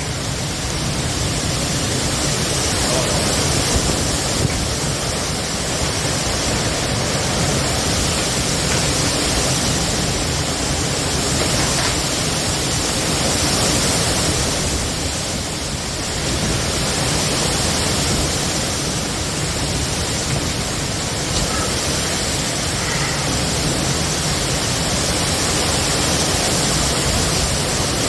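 Heavy rain and strong wind of a severe thunderstorm, a steady loud rushing that swells and eases slightly.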